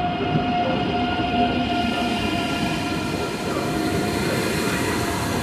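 Deutsche Bahn ICE 3 electric trainset running slowly along a station platform: a steady electric whine with several tones over a continuous rolling rumble.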